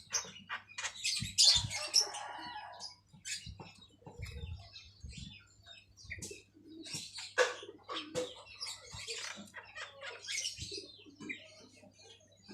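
Javan myna calling in an irregular run of short, scratchy chirps and clicks, over a faint steady low hum.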